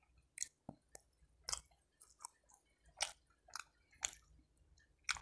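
A person chewing a mouthful of filled waffle sandwich with the mouth closed: soft, irregular wet smacks and clicks, about one every half second.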